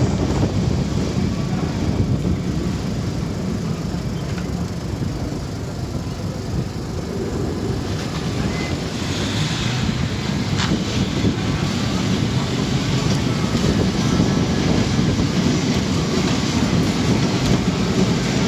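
Historic Lisbon electric tram running along its rails: a steady low rumble that eases a little about six seconds in and builds again, with one sharp click about ten seconds in.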